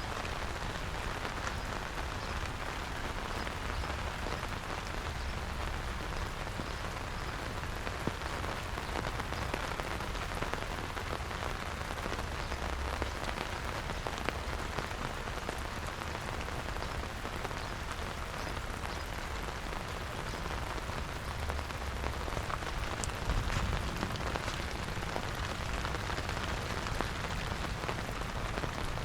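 Steady rain falling on surfaces, an even hiss with scattered sharper drop ticks and a low rumble underneath.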